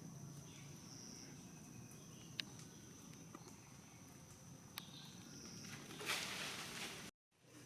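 Steady high-pitched insect drone over quiet outdoor ambience, with two faint clicks and a brief rustle about six seconds in. The sound then cuts out completely for a moment.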